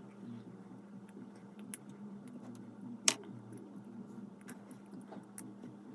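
Plastic Lego pieces being handled and fitted, giving faint scattered clicks with one sharp click about three seconds in, over a steady low hum.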